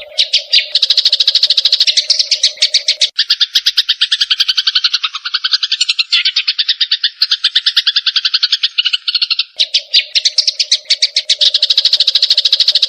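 Cucak jenggot (grey-cheeked bulbul) and Eurasian tree sparrow calling in a fast, continuous chattering rattle of many notes a second, as in an aggressive bird fight. A steady low drone underlies it, drops out about three seconds in and returns near the end.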